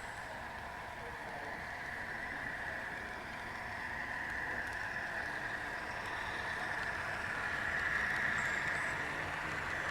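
Model train running along a layout track, growing louder toward the end as it comes closer.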